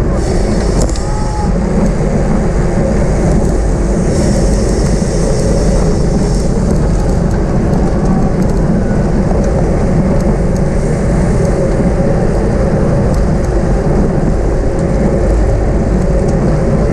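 Steady, loud wind rumble on the microphone of a camera riding along in a bicycle race at speed.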